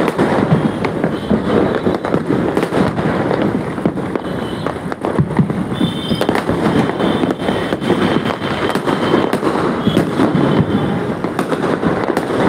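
Many aerial fireworks and firecrackers going off at once, a dense, unbroken run of bangs and crackling with no let-up. A faint high whistle sounds for a couple of seconds about six seconds in.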